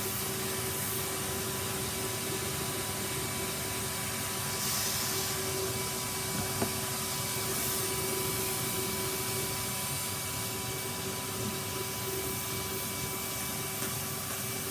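Henry cylinder vacuum cleaner running steadily, a constant motor whine over the rush of air.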